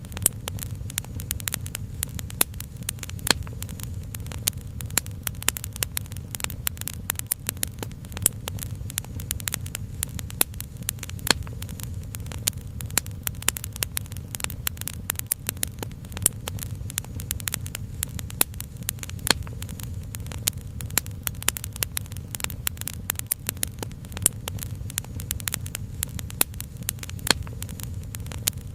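Wood fire crackling, with many sharp, irregular pops and snaps over a steady low rumble.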